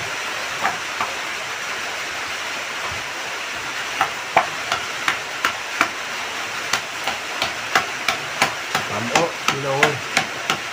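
Wooden pestle pounding fresh orange roots in a bowl. Two knocks come near the start, then steady pounding from about four seconds in, about three strokes a second. Under it runs a steady hiss of heavy rain.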